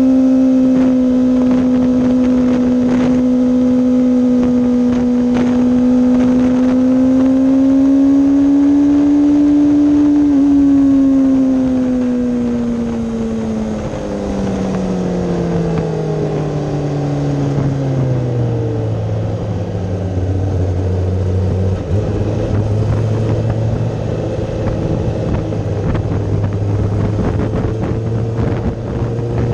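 Kawasaki ZX-10RR's inline-four engine, heard from on board, held at high revs at speed, then falling in steps over several seconds as the bike slows and changes down, settling to low revs, with wind rush over the bike.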